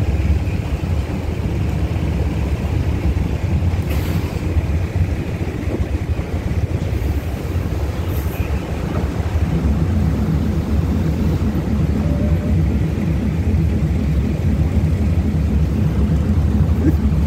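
Passenger train running slowly into a station, a steady low rumble of wheels on rails. About halfway through, a low rhythmic pulsing joins it.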